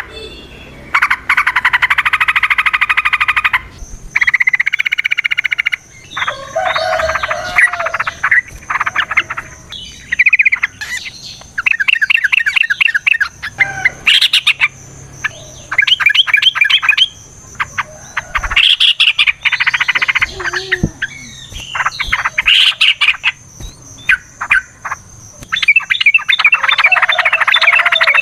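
Yellow-vented bulbuls (trucukan) singing in long bursts of rapid, bubbling trilled chatter, phrase after phrase with short gaps between. A faint, steady, high-pitched whine runs behind the song for most of the time.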